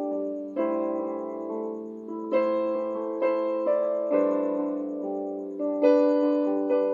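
Slow instrumental on a piano-toned keyboard: chords struck every second or two and left to ring and fade.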